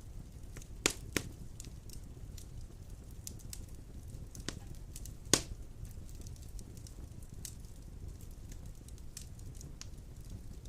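Wood fire of large logs burning in a fireplace: a steady low rumble of flames with scattered crackles and sharp pops, two close together about a second in and the loudest about five seconds in.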